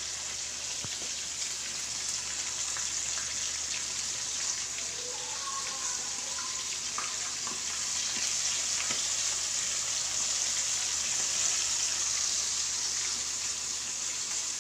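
Chicken pieces frying in hot ghee in a kadhai over a low flame: a steady high sizzle with scattered crackles, growing slightly louder about halfway.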